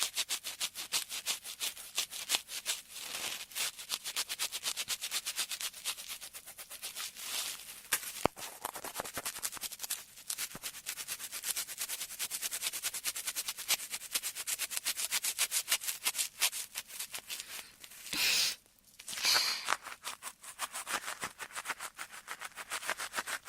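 Ear-cleaning ASMR sounds: rapid, fine scratching and rubbing strokes close to the microphone, several a second, with two louder swells of noise about three-quarters of the way through.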